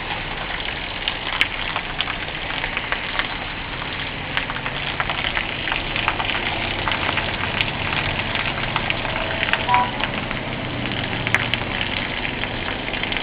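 Heavy rain coming down steadily: a dense hiss full of sharp drop clicks on hard surfaces, with a faint low hum underneath in the second half.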